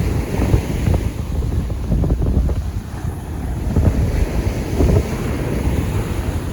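Strong wind buffeting the microphone in uneven gusts, a heavy low rumble, with surf washing on the shore beneath it.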